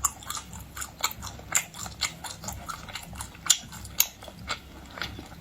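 Close-up chewing and biting of crunchy food, with irregular sharp crunches and crackles about every half second.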